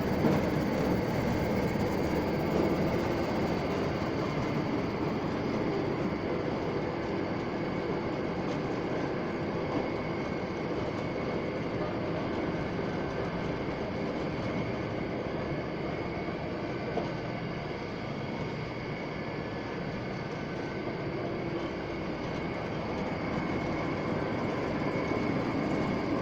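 CMP di Pilastro A-4 vial and ampoule washing machine running: a steady mechanical clatter with a thin continuous whine over it.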